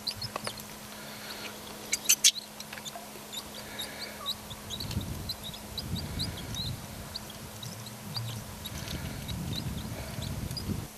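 Small bird chirping over and over in short high notes, about three a second. A few sharp clicks come about two seconds in, and low rumbling noise from handling comes in the second half.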